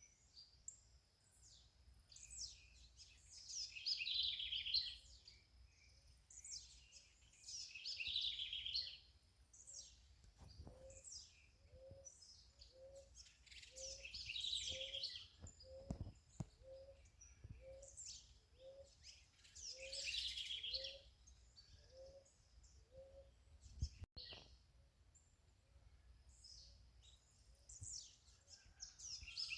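Birds singing in short high chirping phrases a few seconds apart over faint outdoor background noise. From about ten seconds in, a lower, evenly spaced note repeats about every half second for roughly twelve seconds. There is one sharp click about three quarters of the way through.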